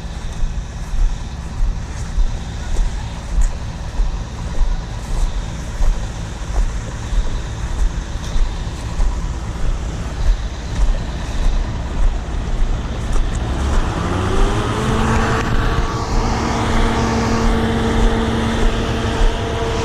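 John Deere 7720 combine's engine running with a steady low pulsing. About fourteen seconds in, a hum rises in pitch and then holds steady as machinery on the combine spins up.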